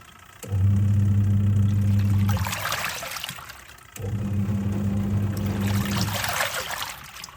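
Twin-tub washing machine in its wash cycle: the pulsator motor hums for about two seconds, cuts out, and the churned water swishes on; the motor starts again about four seconds in, runs about two seconds, and cuts out again.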